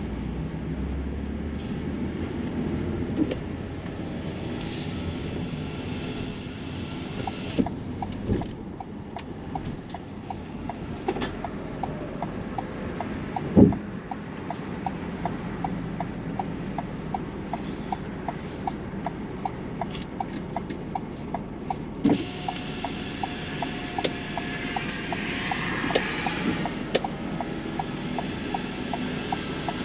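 Camper van's engine and road noise heard inside the cab while driving, with a turn-signal indicator ticking steadily about twice a second from about a quarter of the way in. A single louder knock comes about halfway through.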